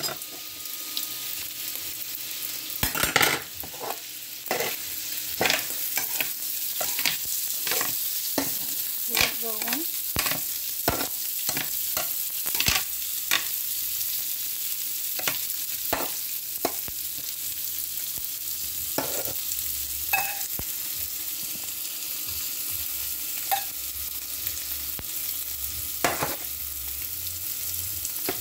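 Cabbage, onions, rice and shrimp sizzling in a hot pan on a stovetop, with a steady hiss. A utensil knocks and scrapes against the pan every second or so as the food is stirred.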